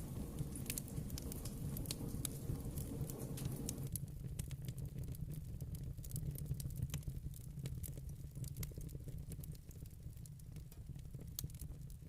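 Fire in a fireplace, crackling with frequent small sharp pops over a low steady rumble. About four seconds in, part of the background hiss drops away and the pops stand out more.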